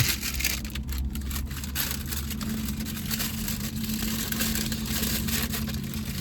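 A car engine idling, a steady low hum heard from inside the cabin, with scattered light crackles of handling over it.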